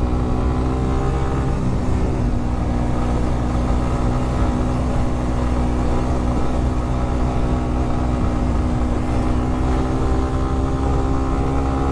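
Suzuki GSX150 Bandit's single-cylinder engine running at steady revs while riding, its note holding one pitch, over a low rumble.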